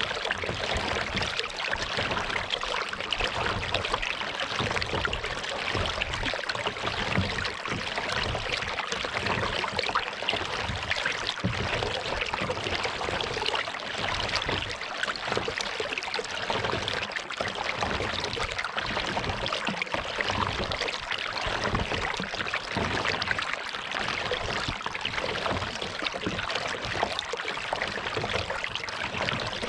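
Water trickling and lapping around a moving kayak on a lake, a steady wash of water sound with a restless low rumble underneath.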